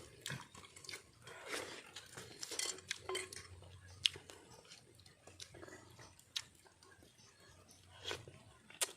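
Utensils clinking and scraping on plates during a meal, with a few sharp clinks and some chewing.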